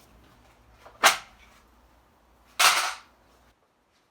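Electric impact wrench with a 21 mm socket firing in short bursts on the wheel lug nuts: a sharp crack about a second in, then a longer rattling burst of about half a second.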